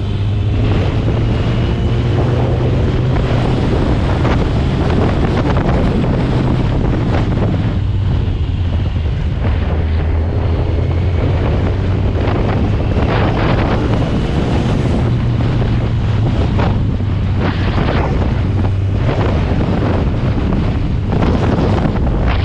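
Superbike engine running steadily while riding, under heavy wind buffeting on the microphone.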